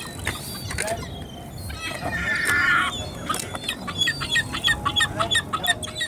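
Gulls calling: a loud, harsh squawk about two seconds in, then a rapid series of short, high calls, about three a second, through the second half.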